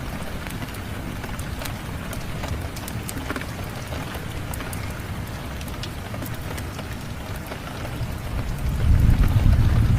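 Steady rain with scattered sharp crackles and pops from a wood fire. A low rumble of thunder swells up about eight and a half seconds in and is the loudest part.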